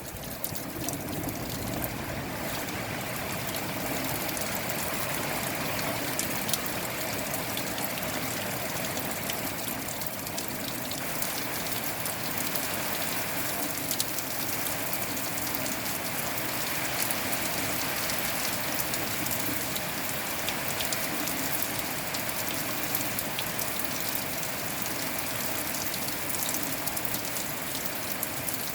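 Steady rain falling, an even hiss with many small scattered drop ticks throughout.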